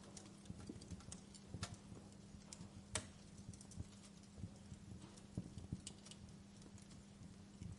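Wood fire burning in a fireplace: irregular crackles and pops of the firewood, one sharper pop about three seconds in, over a low rumble and a faint steady hum.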